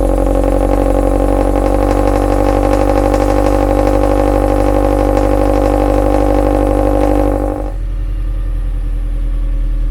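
Toyota GT86's flat-four boxer engine idling steadily just after a cold start, with no pops or bangs from its pops-and-crackles tune. About seven and a half seconds in, the engine note drops and quietens.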